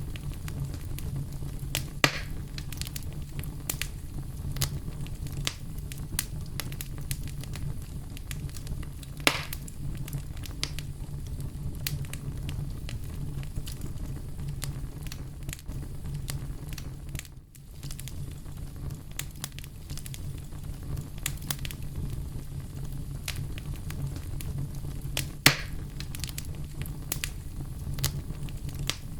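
Campfire burning: a steady low rumble of flames with constant light crackling and three louder pops, about 2 s in, 9 s in and near the end.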